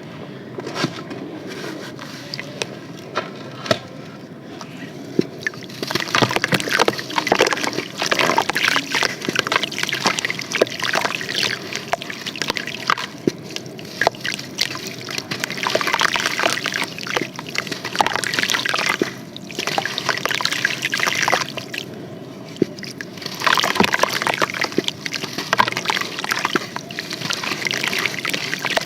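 Pressed sand and charcoal crumbling in water, with sloshing and trickling and many small clicks. Three louder spells of dense crackling, each lasting a few seconds, come through the middle and near the end.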